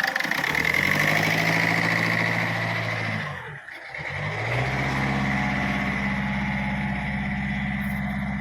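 Ford Figo engine being revved with the accelerator. Its pitch climbs and holds, sinks and briefly drops away about three and a half seconds in, then climbs again and holds at a fairly low pitch. It will not rev past about 2000 rpm even at full pedal, a fault traced to a faulty third injector.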